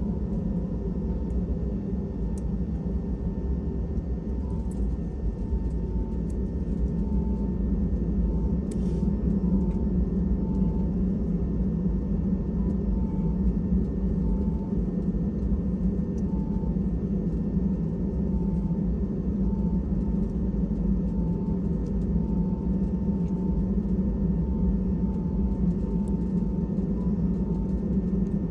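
Steady low rumble of an Airbus A320's engines and airframe heard from inside the cabin, with a faint steady high whine.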